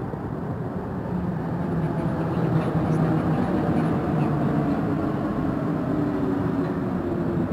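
Metro train running past along a station platform: a steady rumble with a motor hum that moves higher in pitch about halfway through.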